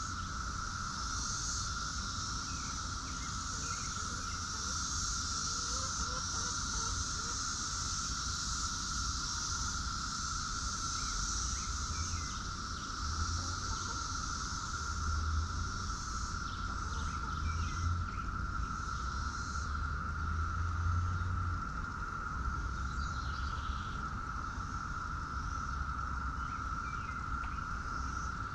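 A steady chorus of insects: a constant drone near one pitch plus a high hiss-like hum, over a low rumble, with a few faint short chirps.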